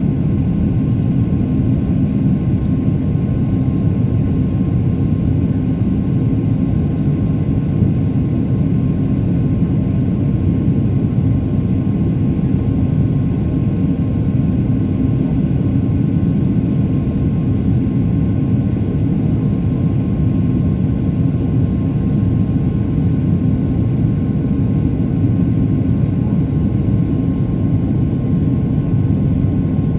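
Aircraft engines in flight, a steady unbroken drone with a faint constant whine.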